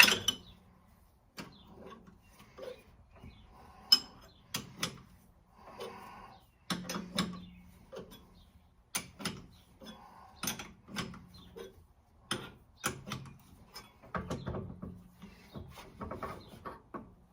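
Irregular metallic clicks, clanks and scrapes of hand tools and parts being handled while the harmonic balancer is worked off the front of a Ford 302 V8.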